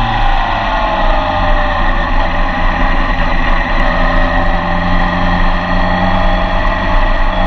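Yamaha FJR1300's inline-four engine heard from on board, its revs falling over the first few seconds as the bike slows into a corner, held steady through the lean, then rising again near the end as the throttle opens. Wind rush runs underneath.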